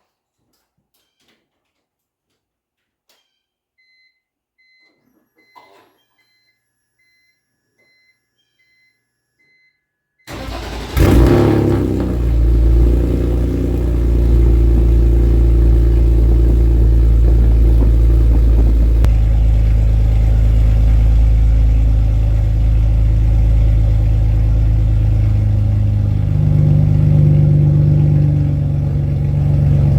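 A few short electronic warning beeps, then about ten seconds in the BMW 330Ci's 3.0-litre straight-six is cranked, catches and settles into a steady idle, run so that a pinhole leak in the exhaust can be found.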